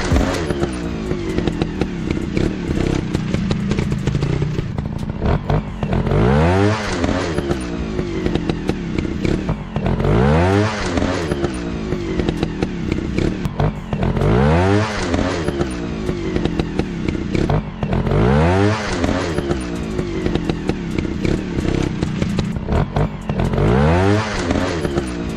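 Dirt bike engine running and revving up over and over, its pitch climbing in a rising sweep about every four seconds.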